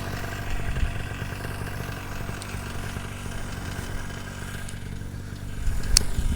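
Paramotor engine idling steadily, left running on the ground, where without a cooling fan it risks overheating. One sharp click about six seconds in.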